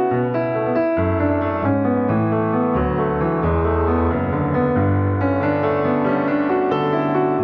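Piano music, a steady run of sustained notes over low bass notes.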